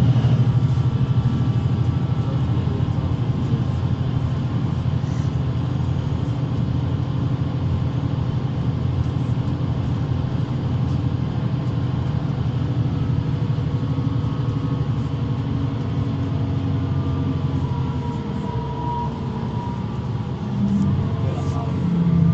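Mercedes-Benz Citaro C2 city bus engine running, a steady low drone that eases slightly near the end and then picks up again.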